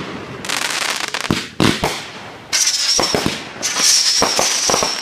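Fireworks going off: dense crackling with several sharp bangs, and a high whistle running through the second half.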